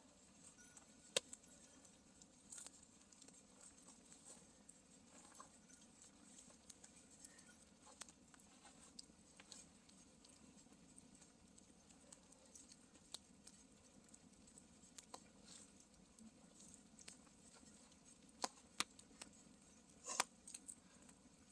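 Campfire quietly crackling, with scattered sharp pops at irregular intervals and a few louder ones near the end.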